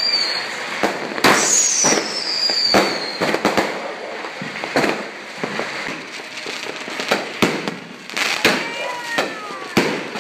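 Consumer aerial fireworks going off: a string of sharp bangs from shells bursting overhead, with a high falling whistle lasting about two seconds, starting just over a second in.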